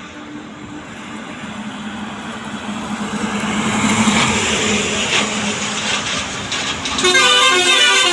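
Tata tipper truck on the move, its engine and road noise steadily growing louder. About seven seconds in, a loud pitched, pulsing blare sounds for about a second.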